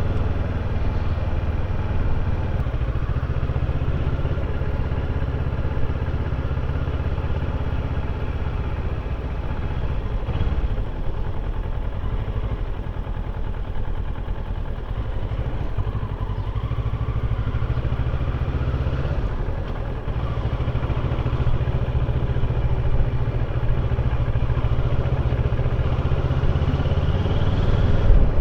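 Kawasaki motorcycle engine running steadily under way, heard from the rider's seat along with wind and road noise; the engine eases off briefly a couple of times and gets louder near the end.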